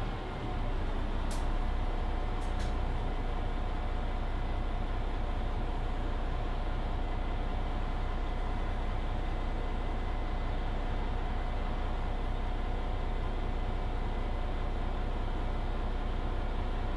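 Mercedes-Benz Citaro C2 hybrid city bus driving along, heard from inside the passenger cabin: steady drivetrain and road noise with a constant whine, after a brief dip in loudness at the start. A few faint clicks come in the first few seconds.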